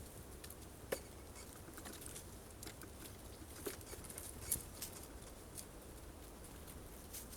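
Birds pecking and tapping at sunflower seeds on a feeder: irregular sharp taps, a loud one about a second in and another near the middle.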